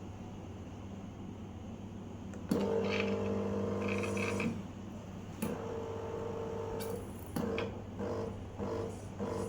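DeLonghi La Specialista espresso machine's pump buzzing as it pushes descaling solution through the machine. Over a low steady hum, it runs for about two seconds starting about two and a half seconds in, and again for about a second and a half a little past halfway. Near the end it switches to short pulses, about two a second.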